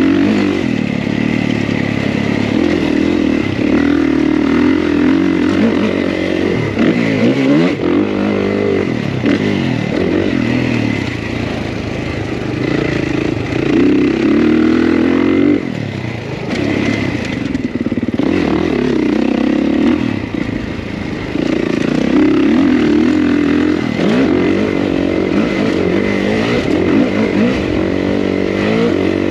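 Kawasaki KX450 single-cylinder four-stroke motocross engine revving under hard riding, its pitch climbing and dropping every few seconds as the throttle is opened and closed.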